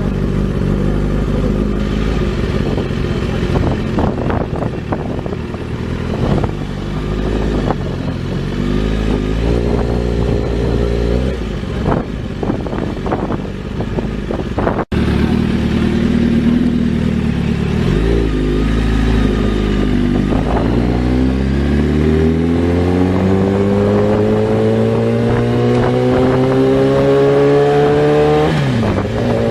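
Sportbike's inline-four engine running under way at fairly steady revs, with a few sharp knocks. After a cut, it pulls up through the revs in one long rising acceleration, and the pitch drops sharply at a gear change near the end.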